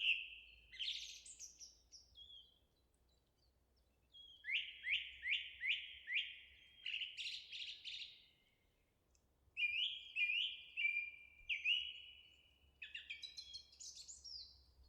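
A songbird singing in phrases of quick whistled notes, several of them runs of four or five downward-slurred notes, with short pauses between phrases.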